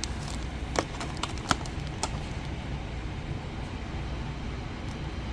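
Car driving, heard from inside the cabin as a steady low rumble, with a few light clicks about one and one and a half seconds in.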